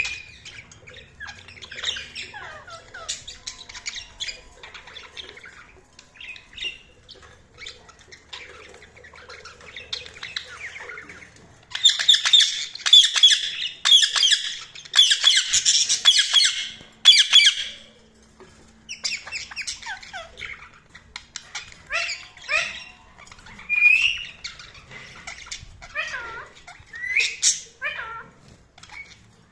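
Budgerigars chirping and squawking in short calls, with a loud stretch of fast, continuous chattering from about twelve to eighteen seconds in.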